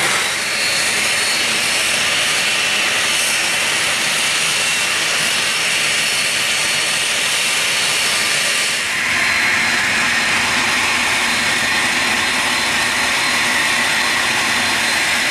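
Business jet's turbofan engines running: a steady, loud rush with a thin high whine. The sound shifts and grows a little louder and fuller about nine seconds in.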